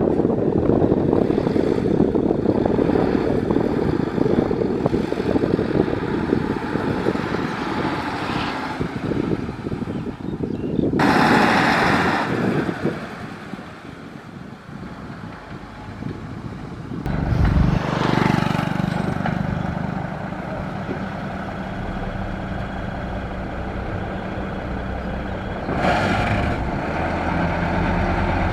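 Heavy diesel dump truck and site machinery running: a dense low rumble at first, then a steady engine drone in the second half. Three short hissing bursts break in, around 11 s, 18 s and 26 s.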